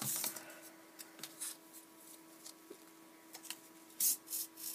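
Cardboard pieces cut from a toilet paper roll rustling and scraping in the hands as they are slid onto a shoelace, in a few short scratchy bursts, the loudest about four seconds in, over a faint steady hum.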